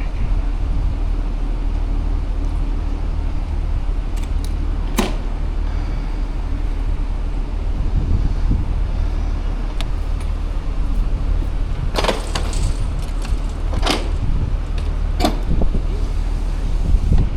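Steady low wind rumble on the microphone from riding a bicycle along a city road, with traffic going by. A few sharp clicks or rattles come about five seconds in and again between twelve and fifteen seconds.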